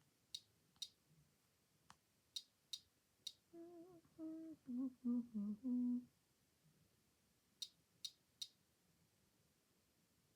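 A woman humming a short tune of a few notes, stepping downward, for about two and a half seconds in the middle. Sharp clicks in small groups of two or three come before and after the humming.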